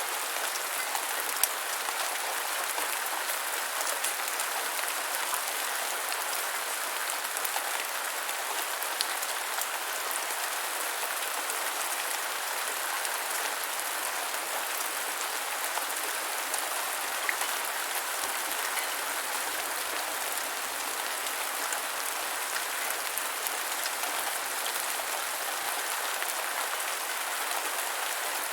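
Steady gentle rain falling, an even hiss with scattered individual drop ticks.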